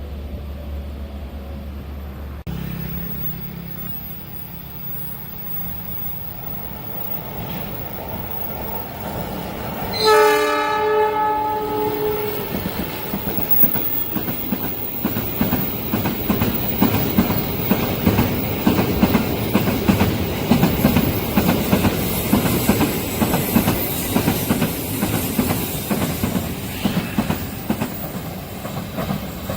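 A train approaching and passing close by: its horn sounds once for about two seconds, about ten seconds in, and then the wheels clatter rapidly over the rails as the cars go by at speed.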